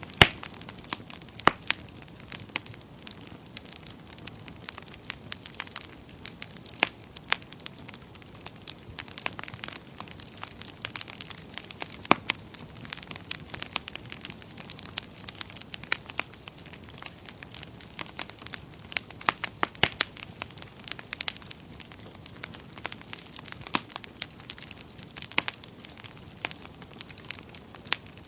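Wood fire crackling in a fireplace: irregular sharp pops and snaps, several a second, over a faint low hiss.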